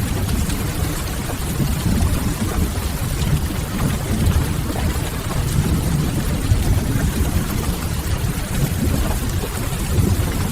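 Ambience mix of steady rain with soft crackling from a wood fire, over a deep, steady low rumble.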